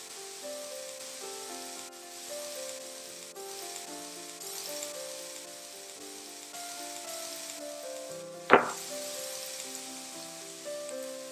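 Minced garlic sizzling in oil in a nonstick frying pan as it is stirred with a silicone spatula, with one sharp knock about eight seconds in. Background music with a slow melody of held notes plays over it.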